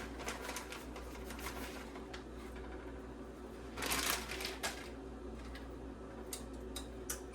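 Light scattered clicks and scraping of a utensil stirring shredded cheese into a sauce in a saucepan, with a brief rustle about four seconds in, over a steady low hum.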